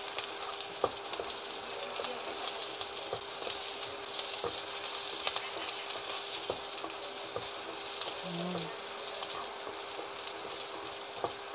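Chopped garlic and onion sizzling in hot oil in a wok, stirred with a spatula that clicks and scrapes against the pan now and then. A faint steady hum runs underneath.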